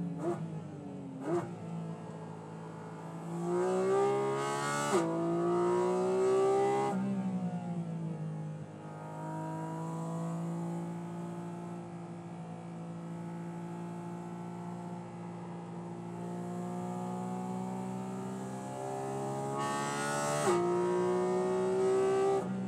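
2023 Porsche Cayman GT4 RS's 4.0-litre naturally aspirated flat-six on track, heard from inside the cabin. It gives two quick blips of revs in the first second and a half, then climbs steeply in pitch and drops sharply at quick gearshifts about five seconds in and again near the end. Between these, the note falls as the car slows and then holds a long, steadier, lower note.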